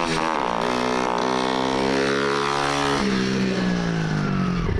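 Small dirt bike engine running under way. Its pitch drops sharply at the start, holds steady, steps lower about three seconds in and falls off again near the end as the bike slows.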